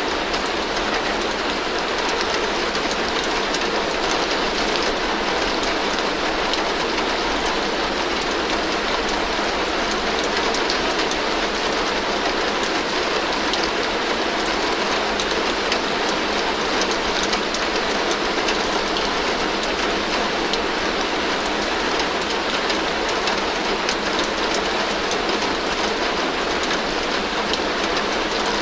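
Heavy rain falling steadily on a tin roof: a dense, even patter of drops on the metal with no change in strength.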